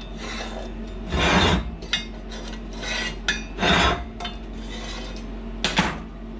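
Steel parts and tools being handled: three loud metal scrapes and clatters, about a second in, near the middle and near the end, over a steady low hum.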